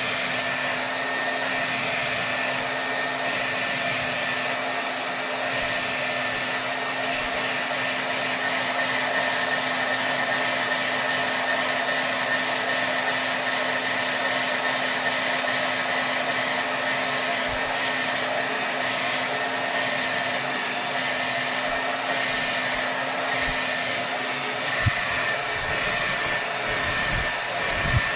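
Hair dryer blowing steadily at full power, an even rush of air with a faint steady whine in it. A few short low thumps come near the end.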